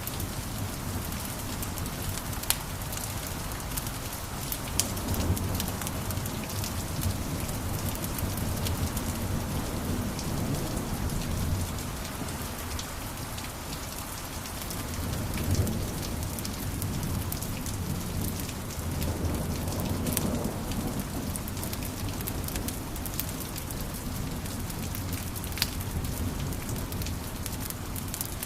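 Wood fire burning in a fireplace: a steady crackle and hiss over a low rumble of flames that swells and eases, with a few sharper pops.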